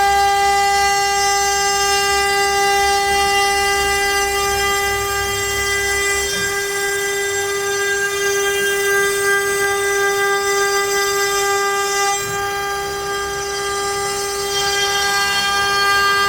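CNC router spindle running with a steady high whine while the bit mills letters into pine. Underneath, a lower cutting rumble shifts as the bit moves through the wood, changing about six and twelve seconds in.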